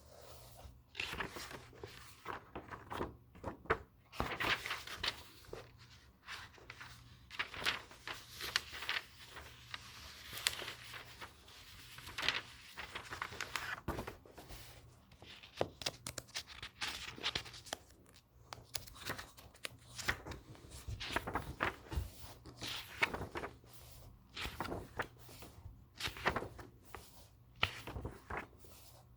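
Books handled close up: paper pages rustling and being turned, with soft taps and scrapes in irregular bursts.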